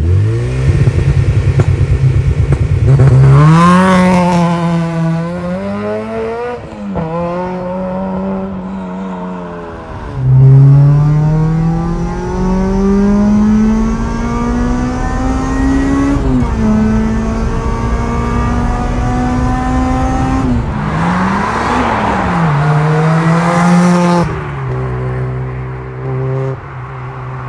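Supercharged Honda Civic Type R EP3's 2.0-litre four-cylinder engine accelerating through the gears. The pitch rises on each pull and drops sharply at each gear change, with one long rising pull about halfway through.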